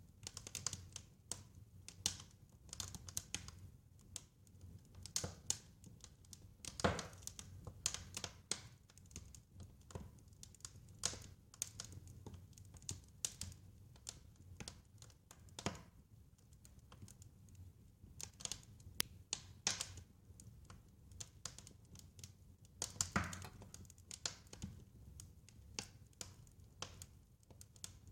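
Wood fire crackling: irregular small snaps and pops, a few louder ones, over a low steady rumble of the flames.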